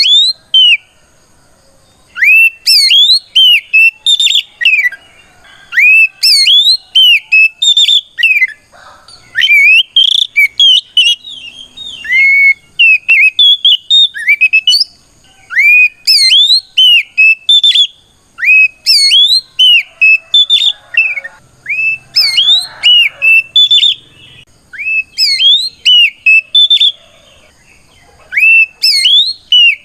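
Oriental magpie-robin singing in the loud, clear 'ngeplong' style: quick phrases of upward-sweeping whistled notes, repeated with short pauses between them. It is a fighting song that calls out a rival.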